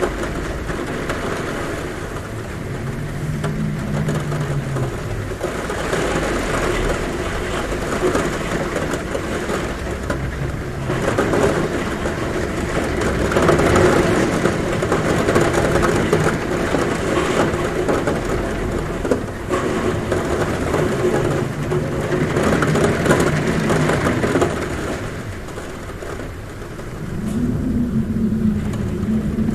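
Heavy rain falling on a roof, with wind humming at a window in low tones that swell and fade. The rain swells in the middle and eases briefly near the end.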